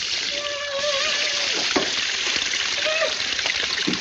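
Steady hiss of water spraying from broken plumbing, with short high-pitched vocal whines twice over it.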